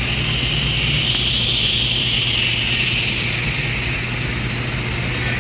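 MIG welding arc burning continuously while a pipe elbow is welded to a base plate, a steady hiss with a low hum underneath.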